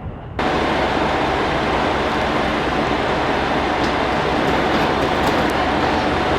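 Kyoto Tango Railway 'Tango no Umi' diesel railcar standing at the platform with its engine running: a steady hum under a loud, even rumble and hiss.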